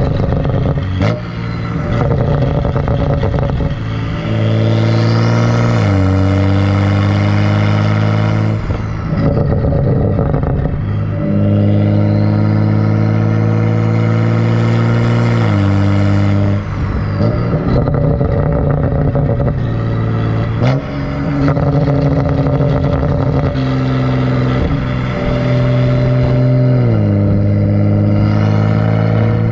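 Exhaust note of a 2011 BMW 135i's turbocharged N55 straight-six, run catless with the muffler deleted: a loud, raspy engine note that holds a steady pitch for a few seconds, then drops abruptly, about five times.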